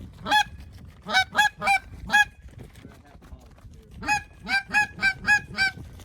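A hand-blown goose call sounding short, sharp honks in two quick runs, about five and then six, to draw in flying geese.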